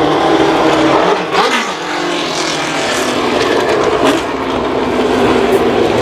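Racing car engines running at high revs on track, one passing by about a second and a half in with a falling pitch.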